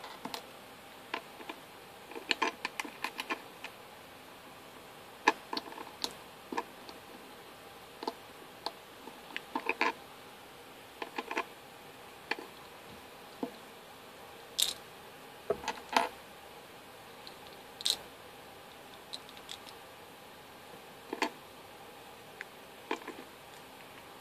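LEGO bricks clicking and tapping as they are handled and pressed together: irregular sharp clicks, sometimes in quick clusters, with pauses of a second or more between them.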